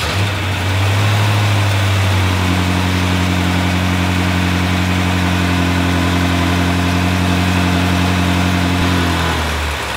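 BMW F10 M5's rebuilt S63 twin-turbo V8 running at a steady idle just after being started, the freshly built engine's early running. Its tone eases off near the end.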